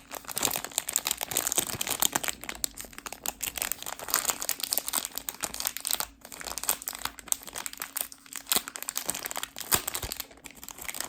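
Plastic packaging handled and unwrapped by hand, a continuous run of irregular crackles.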